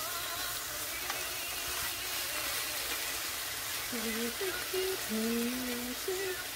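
Cubed chicken breast sizzling in a nonstick frying pan as a spatula turns it. A voice hums or sings a few notes about four seconds in.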